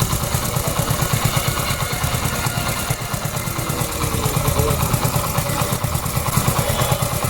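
Honda CD80 single-cylinder four-stroke motorcycle engine running steadily at idle, a rapid, even exhaust beat. Its sound is harsh because the exhaust is leaking at the silencer collar.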